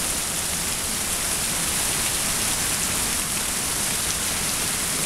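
Heavy rain falling steadily, a dense even hiss of drops hitting the ground.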